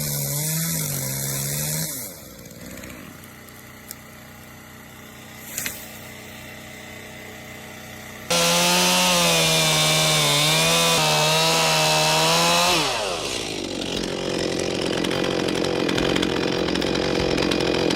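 Chainsaw running at full throttle, its engine note wavering as it cuts, then a quieter stretch with a couple of sharp cracks. About eight seconds in it runs hard again for about four seconds, then winds down in pitch toward idle, followed by a steady rough noise.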